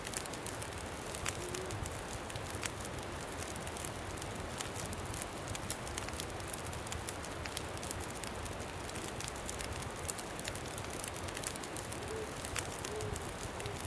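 Campfire crackling steadily with frequent sharp pops, over a low, steady wind rumble.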